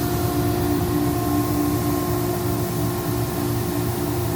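Ingersoll Rand 50 hp rotary screw air compressor running steadily in modulation mode: a constant machine hum with several fixed tones over a low rumble.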